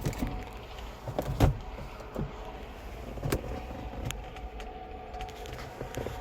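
A few sharp clicks and knocks, the loudest about a second and a half in, over a steady low rumble.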